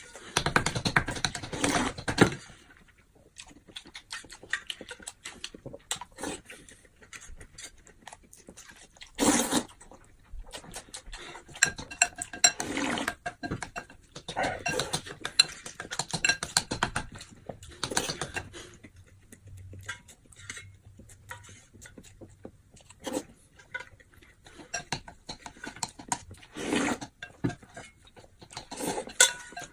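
Tableware clinking and scraping against bowls and plates during a meal, as irregular clicks with louder noisy bursts now and then.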